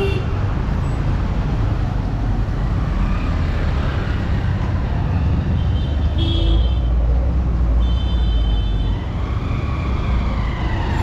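Busy street traffic: a steady rumble of engines, with two short horn toots about six and eight seconds in.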